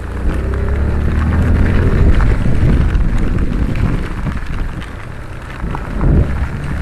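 Heavy monsoon rain falling, with many small irregular patters over a loud, steady low rumble.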